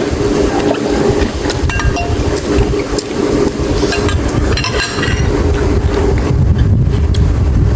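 Close-miked eating: chewing and mouth sounds with a few short clinks, over a steady low hum.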